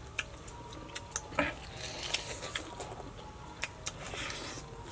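People chewing crispy grilled frog, with scattered small crunches and clicks.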